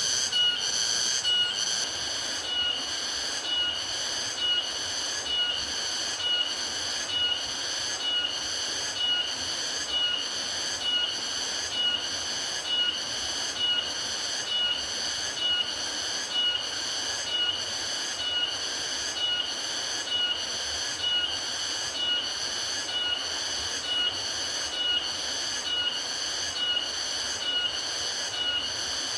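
A high-pitched chirp repeating evenly, about three every two seconds, with an unchanging pace, over a steady rushing noise like a running river.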